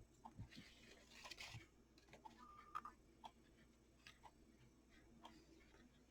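Near silence with a faint clock-like tick about once a second. Soft handling rustles can be heard between the ticks.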